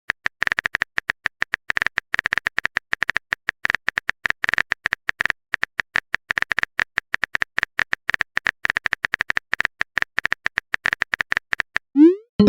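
Typing sound effect: rapid, irregular clicks, several a second, each with a short beep-like tone. Near the end they stop and a short rising swoosh follows.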